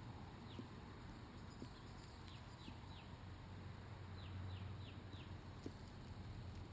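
A bird calling: a loose series of about eight short, high chirps, each sliding down in pitch, over a steady low background rumble.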